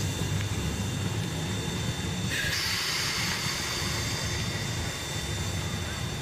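Narrow-gauge train running with a steady low rumble; a hiss joins in about two seconds in and carries on.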